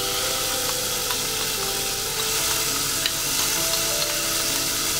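Ground spice paste of shallots, turmeric and chili sizzling in hot oil in a stainless steel pan: a steady frying hiss, with a couple of faint clicks.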